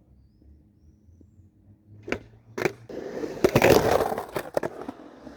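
Skateboard: two sharp clacks about two seconds in, then from about three seconds in a loud, rough rolling and scraping of the board with rapid clattering knocks.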